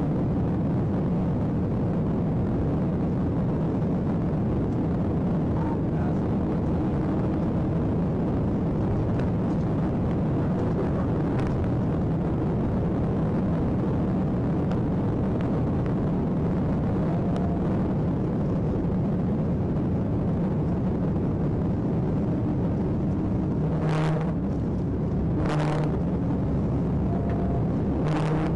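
Steady engine, road and wind noise of a police cruiser driving at highway speed in pursuit, heard from its dashcam. Several short sharp sounds come near the end.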